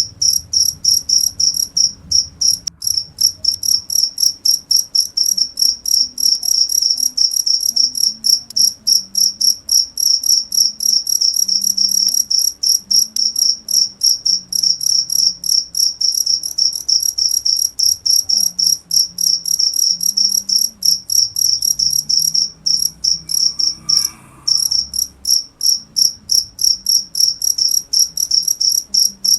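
Cricket chirping: a steady run of fast, high-pitched chirps that breaks off for a moment about 24 seconds in.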